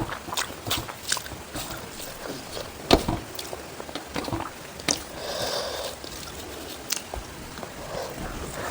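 Close-miked eating sounds: wet squishes, chewing and mouth clicks, with a sharper click about three seconds in and a short soft rustle around five seconds.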